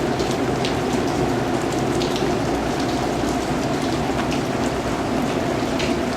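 Steady rain: a dense, even hiss with separate drops striking here and there through it.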